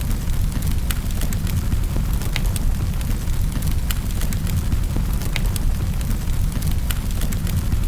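Wood fire burning in a fireplace: a steady low rumble of flames with sharp crackles and pops, a few each second.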